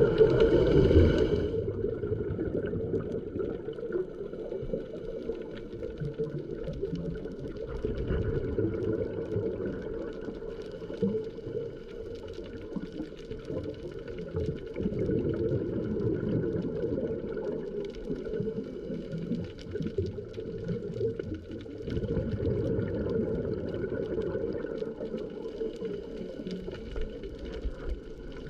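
Underwater sound at a coral reef: a dense crackle of small clicks over a steady low hum, swelling louder every several seconds.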